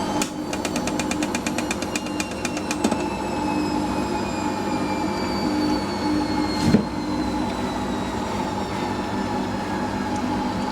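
Hoover SIX Inter@ct AAA Whisper 1600 washing machine spinning, its motor whine slowly falling in pitch as the drum slows. Rapid ticking, about ten a second, runs through the first three seconds, and there is a single knock a little after six seconds.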